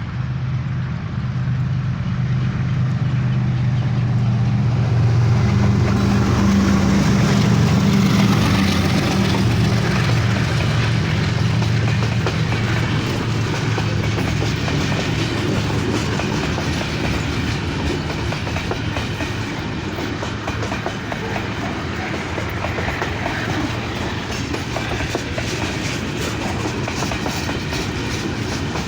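A GEU-40 diesel-electric locomotive running past at close range, its engine hum loudest in the first third, then the rattle and clickety-clack of the coaches' wheels over the rail joints as the train goes by.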